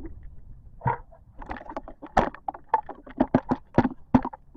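A plastic bucket being dipped and filled with creek water: a run of irregular splashes and knocks, coming thicker from about a second in.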